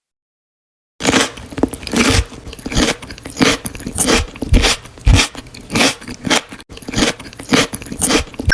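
Crunchy chewing and biting of food, a steady run of crisp crunches about two a second, starting about a second in after silence.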